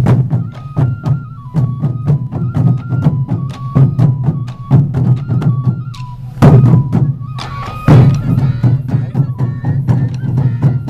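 Sansa odori festival music: a taiko drum group beating a fast, dense rhythm while a bamboo flute plays a high stepping melody. The drumming swells louder twice, about six and a half and eight seconds in.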